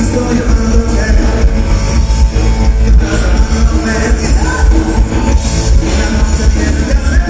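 Live rock band playing loudly with electric guitar, bass and drums, a singer's voice faintly in the mix.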